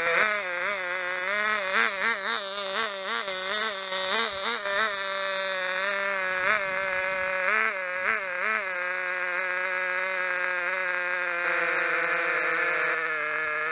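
Small glow-fuel (nitro) engine of a 1/16 radio-controlled car running at high revs, with quick repeated throttle blips over the first five seconds and again about eight seconds in, then holding a steady buzzing pitch.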